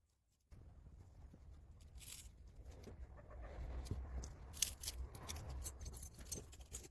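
Faint handling noise of a phone being worked on: scattered light clicks and scrapes over a low rumble, a little louder in the middle.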